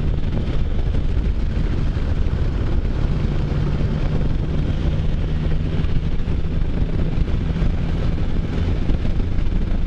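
Can-Am Spyder F3's Rotax three-cylinder engine running steadily under way, with wind rushing over the microphone.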